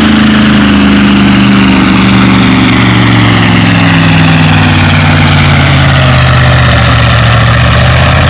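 International Harvester W-9 tractor engine working hard under a pulling sled. Its pitch falls steadily as the sled's load builds and drags the engine down, until the run stops.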